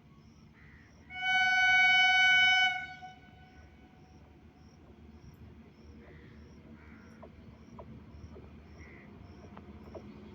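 Train horn sounding once, a single steady blast of about a second and a half, starting about a second in. Insects chirp faintly throughout, and a low rumble grows slightly toward the end.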